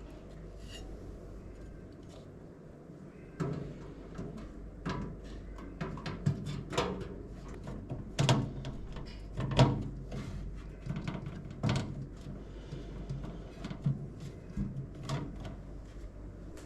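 Hands handling PC parts and hardware: a quiet start, then from about three seconds in a string of irregular light knocks, clicks and taps, two of them louder near the middle.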